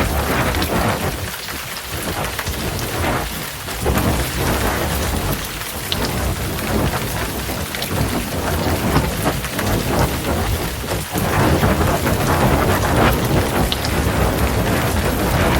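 Heavy rain pouring steadily, with low rolling thunder rumbling underneath; the storm swells a little louder about eleven seconds in.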